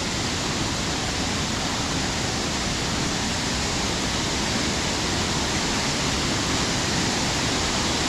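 Waterfall rushing steadily: water dropping about 10 to 15 feet, then spreading over rocks below in a horsetail.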